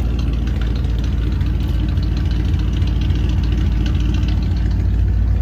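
Ford 302 V8 idling steadily through dual straight pipes, a constant low, pulsing exhaust note.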